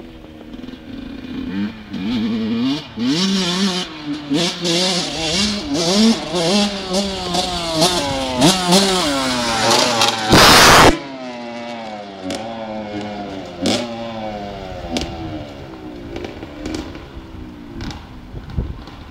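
Motocross bike engines revving up and down repeatedly as they ride, the pitch climbing and dropping with each burst of throttle. A loud burst of noise comes about ten seconds in, and then the engine note sinks and fades.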